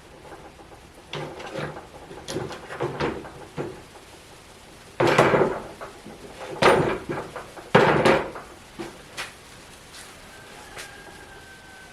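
A series of knocks and clunks of hard objects being handled and set down. Lighter knocks come first, then three loud clunks about a second or so apart, then a few light ticks.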